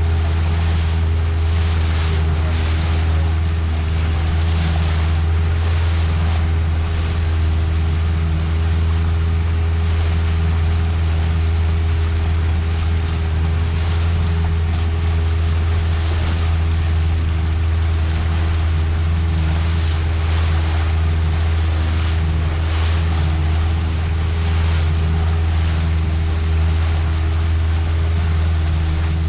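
Boat engine running steadily under way at constant speed, a loud low drone, with the hull swishing through the waves in repeated rushes and wind on the microphone.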